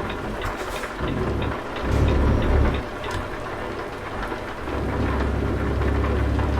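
Steady rain with low rumbling swells from a heavy truck, about two seconds in and again from about five seconds in. Even, rapid ticking, about three a second, runs under the rain through the first half.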